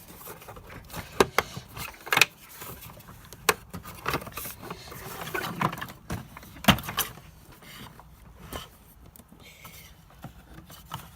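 Plastic parts of a Hoover Dustmanager vacuum cleaner clicking and knocking as a part is worked and pushed to slot into place, in a series of irregular sharp knocks with handling rustle between.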